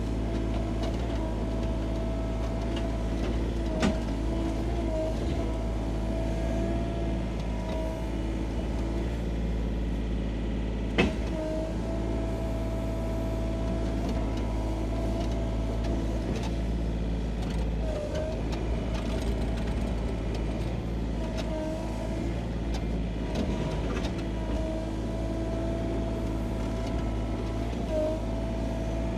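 Sany SY35U mini excavator running steadily, a deep engine hum under a high whine that sags in pitch for a moment several times as the machine works. Two sharp knocks stand out, about four seconds in and about eleven seconds in.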